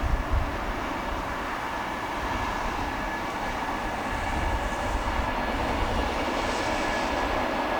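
Freight train of container wagons hauled by an EH500 electric locomotive running along the track: a continuous rail rumble that slowly grows louder, with a faint steady whine on top.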